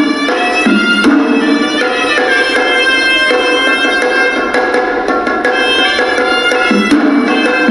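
Sri Lankan hewisi ritual music: a horanewa, a reed shawm, plays a wavering melody of held notes that step up and down, over rapid traditional drum strokes.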